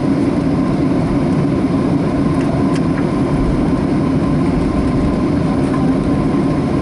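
Steady cabin noise inside a Boeing 737-400 on the ground after landing: a low, even hum from the engines and air conditioning, with a faint steady whine above it.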